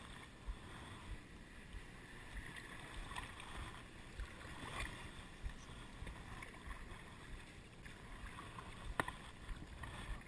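Water lapping and splashing softly around a kayak, over a low steady rumble, with a sharp knock about nine seconds in.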